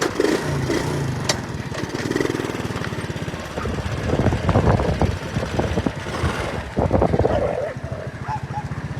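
An engine running steadily with a rapid low pulse, with a few louder irregular bursts over it.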